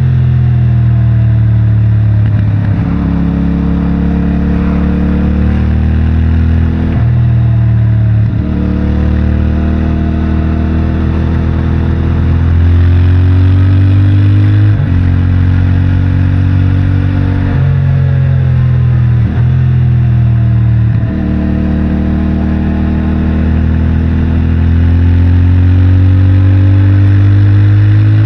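CFMOTO 450MT's parallel-twin engine through its stock exhaust, pulling hard through the gears. The pitch climbs, then drops sharply at each shift, about ten times, over a steady rush of wind and road noise.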